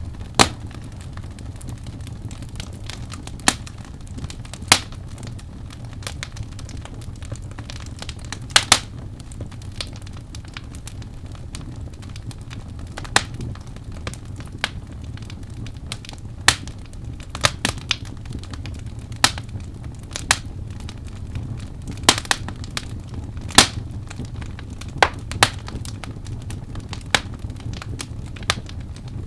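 Wood fire crackling: irregular sharp pops and snaps, some much louder than others, over a steady low rumble.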